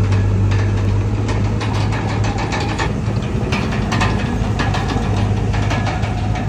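Komatsu D31PX bulldozer's diesel engine running steadily with a deep hum, with many quick metallic clicks and clanks over it.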